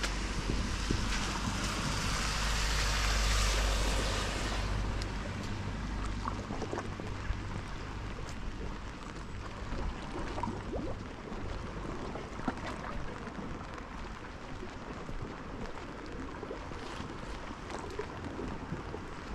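Wind buffeting the microphone for the first few seconds, then a steady wash of rain with scattered drips and taps.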